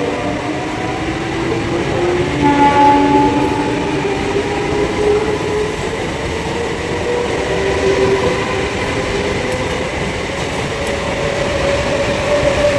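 Train running through a railway station: a continuous rumble of wheels and carriages on the track, with faint tones that rise slowly in pitch over several seconds.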